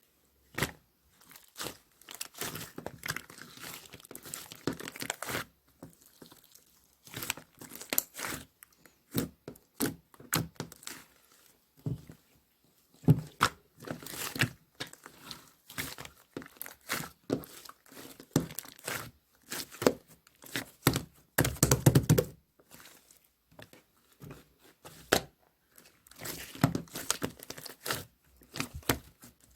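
Hands playing with slime: irregular clusters of sticky crackling, popping and squishing, with brief pauses between. A louder, fuller squish comes about three-quarters of the way through.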